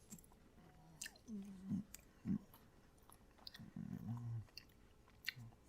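A person chewing a mouthful of microwaved chicken pot pie, soft and wet, with a few sharp mouth clicks.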